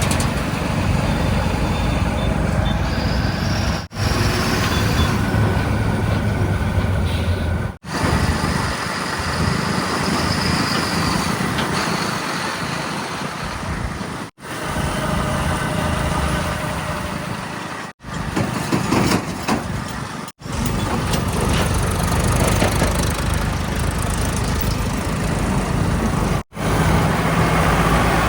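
Heavy diesel engines running steadily, from earthmoving machinery and trucks, in a string of short segments that each break off abruptly.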